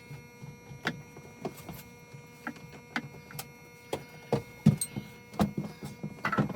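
Irregular clicks and knocks of tools and fuel-filter fittings being handled, about ten over a few seconds, over a steady electrical hum.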